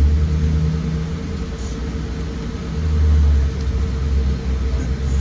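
2023 Blue Bird Vision school bus driving, heard from inside: a steady low engine and road rumble that eases off about a second in and swells again about three seconds in.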